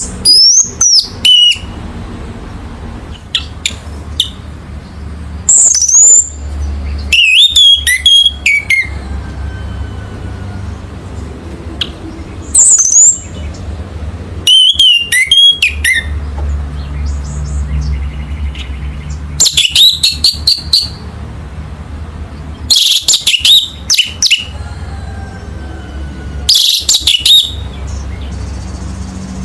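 Orange-headed thrush singing: short, loud phrases of sweeping whistles and quick chirps, repeated every few seconds, over a steady low hum.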